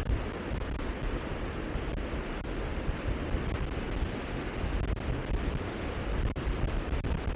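Wind buffeting the microphone: a steady rushing noise, heaviest in the low rumble.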